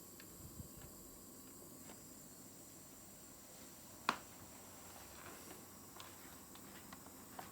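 Light clicks and taps from handling a small object, with one sharp click about four seconds in.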